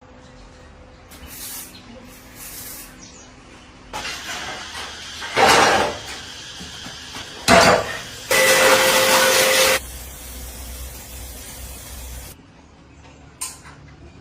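Several bursts of hissing spray: a short one about five seconds in, a brief one about two seconds later, and a steady one lasting about a second and a half.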